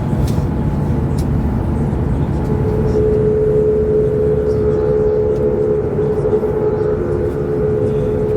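Steady low rumble of a high-speed train running at speed, heard inside the carriage. A steady hum tone joins the rumble about two and a half seconds in.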